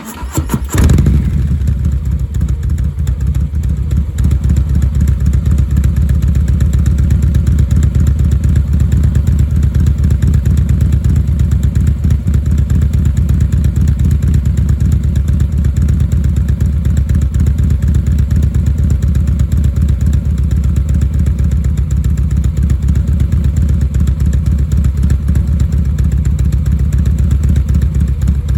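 Harley-Davidson Milwaukee-Eight 117 V-twin firing up and settling into a steady, loping idle at 730 rpm through Cobra RPT 3-inch slip-on mufflers, its uneven beat tuned with a Tman-001 cam toward the classic "three-beat" (potato-potato) rhythm. It surges briefly about a second in as it catches, then holds an even pulsing idle.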